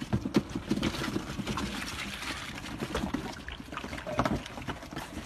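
A litter of young puppies lapping and slurping milk from a shallow bowl: a busy run of many small wet licks and scuffles.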